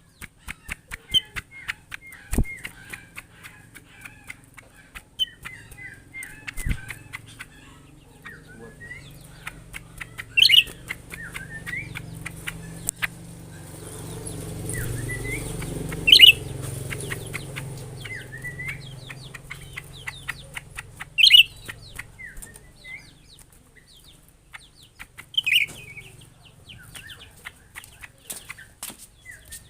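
Small birds chirping: a run of short repeated chirps, with four louder calls a few seconds apart, over a string of quick clicks.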